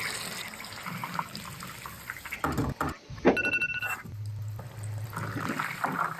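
Water or liquid pouring and splashing in a kitchen, with scattered clicks and a short steady tone about three seconds in.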